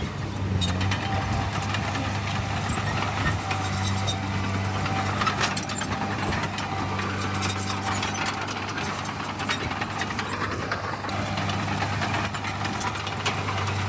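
Heavy diesel earthmoving machinery running steadily, with scattered sharp clicks and clatter over the engine.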